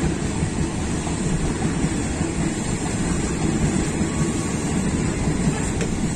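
Passenger train coaches rolling past at close range: a steady, low rumble of steel wheels on the rails.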